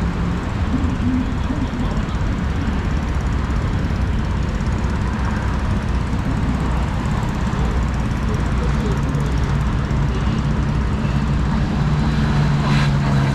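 Steady rumble of city street traffic, with an engine hum growing louder near the end as a vehicle comes close.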